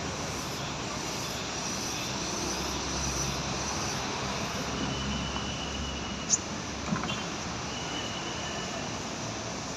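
A small black metallic konin bird gives a few thin, high chirps, with one sharp rising chirp about six seconds in and a smaller one just after. They sit over a steady rumble of traffic or a distant engine.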